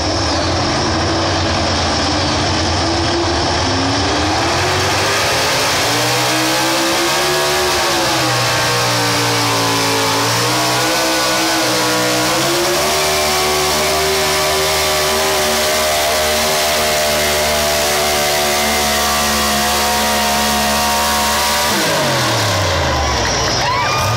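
Pulling vehicle's engine running loud at high revs under load during a pull. Its pitch climbs after a few seconds, wavers, then holds steady before falling steeply as the engine backs off near the end.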